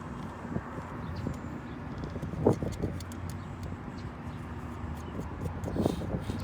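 A steady low mechanical hum with scattered knocks and clicks; a sharp knock about two and a half seconds in is the loudest.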